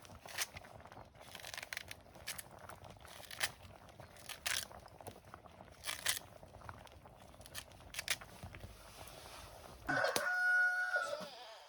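Scattered rustling and small clicks, then near the end a rooster crows once, a single held call that is the loudest sound.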